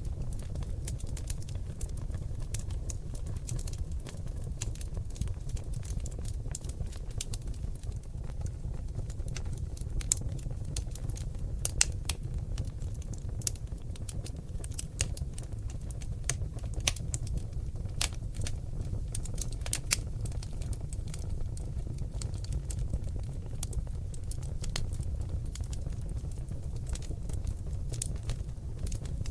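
Seasoned oak logs burning in a fireplace: a steady low rumble of flames under many sharp, irregular crackles and pops, busiest and loudest in the middle stretch.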